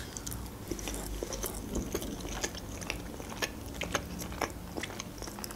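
Close-up eating sounds of a person chewing a soft, cheesy lavash casserole: quiet wet mouth sounds with scattered small clicks.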